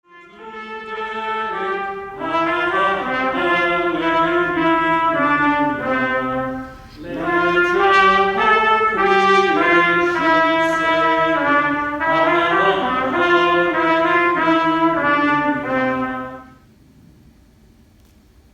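Brass instrumental music, a trumpet-like melody over lower parts. It breaks off briefly about a third of the way through and stops shortly before the end.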